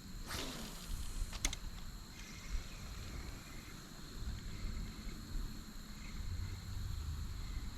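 Outdoor ambience on the water: a steady low rumble with a thin steady high hum, a brief swish about half a second in and a single sharp click about a second and a half in.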